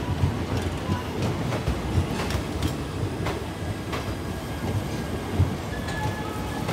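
Indian Railways express coaches rolling past close by, the wheels clattering over rail joints in irregular clicks and thuds over a steady rumble. A faint high wheel squeal comes in near the end.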